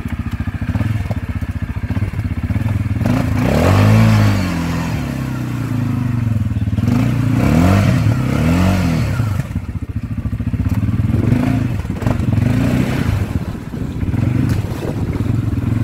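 ATV engine running with a steady idle-like drone, revved up and back down about four seconds in, then twice more in quick succession near the middle.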